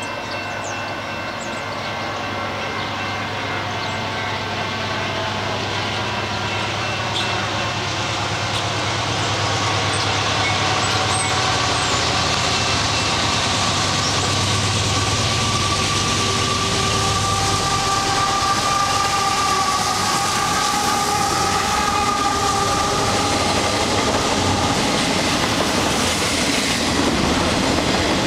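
Canadian Pacific freight train led by two GE AC4400CW diesel-electric locomotives, approaching and passing. The engine hum and rail noise grow louder over the first ten seconds or so, then the double-stack intermodal container cars roll steadily past.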